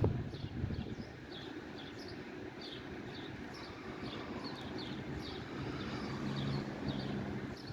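Small birds chirping over and over, each chirp short and falling, over a steady low rumble; a low steady hum comes in about five and a half seconds in.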